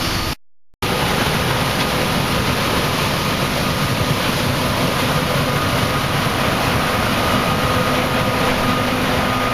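Combine harvester running steadily in the corn: a loud, even machine drone with faint steady whining tones. The sound drops out completely for a moment about half a second in.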